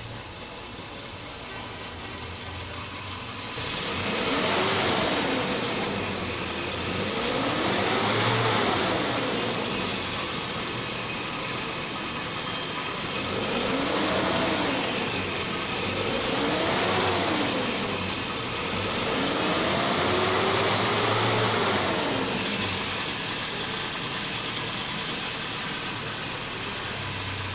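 1999 Toyota Townace Noah engine idling, then revved up and let fall back to idle five times in slow, even swells.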